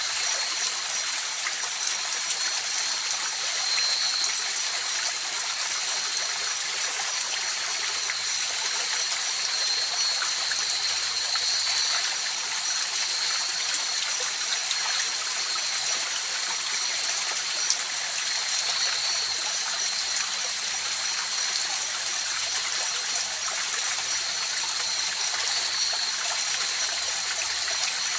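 Mountain river flowing steadily over rocks, an even rushing and trickling of water, with a continuous high-pitched drone of night insects laid over it.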